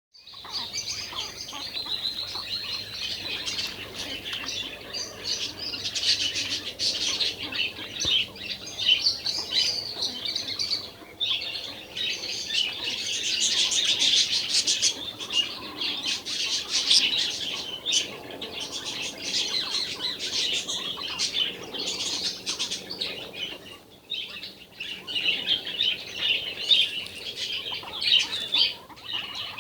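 Two birds fighting: a continuous, fast, high-pitched chattering of chirps and squawks that swells and fades, with brief lulls about eleven seconds in and again near twenty-four seconds.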